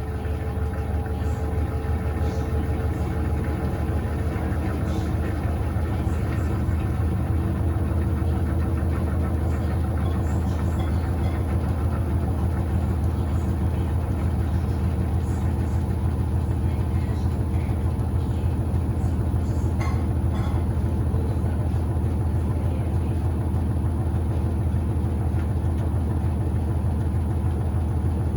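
Electrolux Turbo Acqua Jet LTA15 top-loading washing machine in its spin cycle: the motor and drum spin up, the hum growing louder over the first several seconds, then run steadily as the soapy wash water is spun out.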